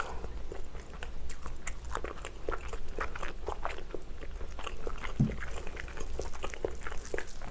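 Close-miked mouth sounds of chewing chewy spicy cold noodles (naengmyeon): a steady run of small wet clicks and smacks, with a brief low hum about five seconds in.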